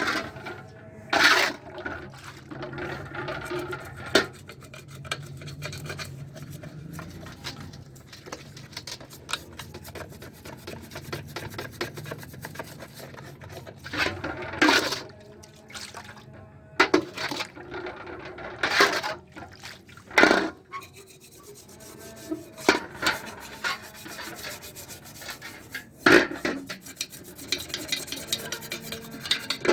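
Hand rubbing and scraping on a Honda CD 70 motorcycle's metal engine side cover while it is cleaned. Irregular louder scrapes and clatters stand out about eight times.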